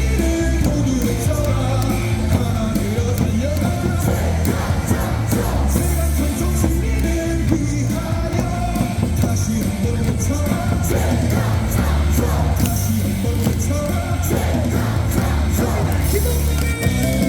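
Loud, steady ballpark cheering music with a heavy bass beat, with many voices singing and yelling along.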